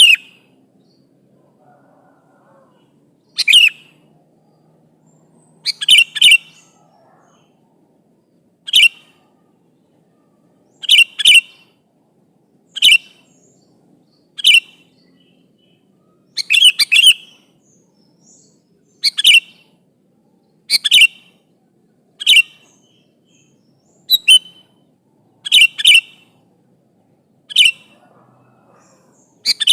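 Sooty-headed bulbul (kutilang) giving short, loud calls every one to two seconds, often two or three in quick succession: a lively calling bird, used to provoke rival bulbuls into answering.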